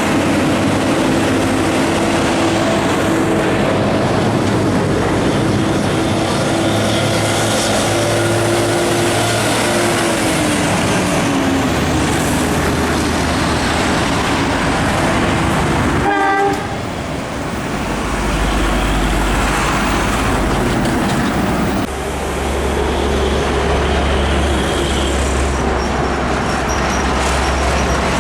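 Heavy trucks passing, their diesel engines loud and rumbling. A steady horn sounds for about the first ten seconds and drops in pitch as it goes by, and a short pulsing horn sounds about midway.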